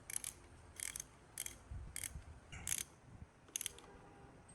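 Six short rasping strokes of a hand tool working metal engine parts, coming at an uneven pace of about one every half second to second.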